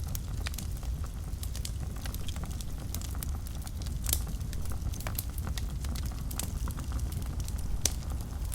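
Wood fire burning in a fireplace: a steady low rumble of the flames with frequent irregular crackles and sharp pops, a couple of louder pops about halfway through and near the end.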